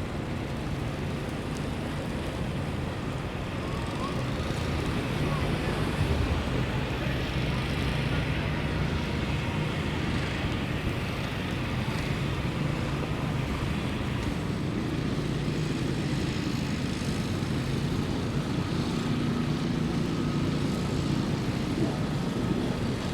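Steady city street noise with traffic, a constant low rumble.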